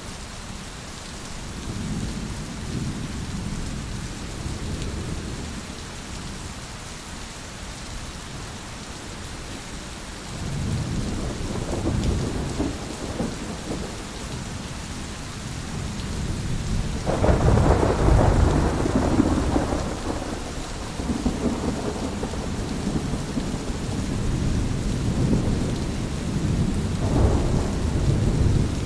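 Thunderstorm: steady rain with rolling thunder rumbling in swells. The loudest roll comes a little past halfway, and a smaller one comes near the end.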